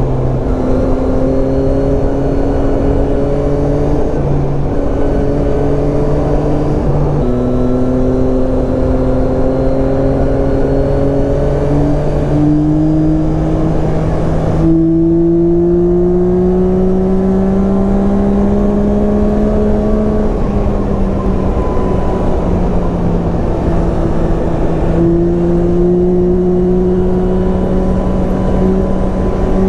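Yamaha Tracer 9's 890 cc inline three-cylinder engine running on the road, under a steady rush of wind. The engine note steps down about seven seconds in, as at an upshift, then climbs steadily under acceleration and drops about twenty seconds in as the throttle eases off.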